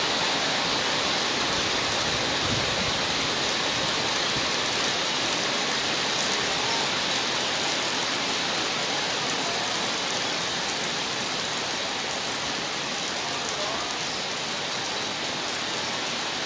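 Heavy storm rain pouring down, a dense, steady hiss.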